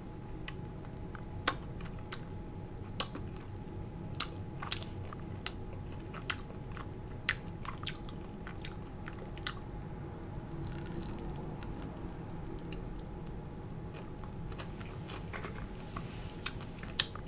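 Close-up biting and chewing of crispy breaded fried chicken, with scattered sharp crunches about once a second over a faint steady hum.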